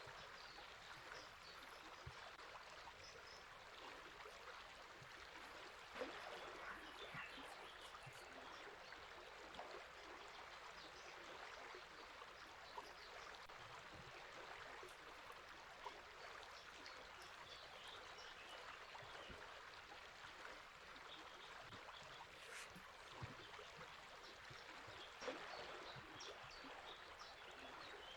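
Faint, steady flow of river water, with scattered short, faint bird chirps and a few light ticks.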